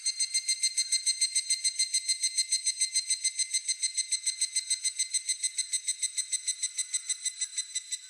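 Evening cicada (higurashi) calling its rapid 'kana-kana' trill, a steady run of clear ringing notes at about nine a second, then stopping.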